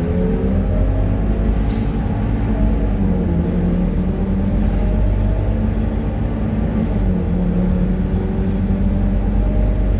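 Scania K230UB city bus's diesel engine running under way, its pitch slowly climbing and then dropping back twice.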